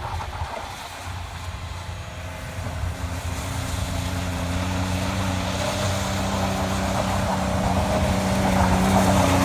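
Pickup truck engine running steadily, growing gradually louder.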